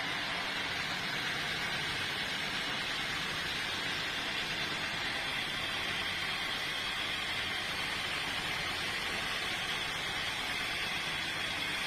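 Sawmill saw cutting through a teak log, giving a steady hissing noise that holds constant throughout.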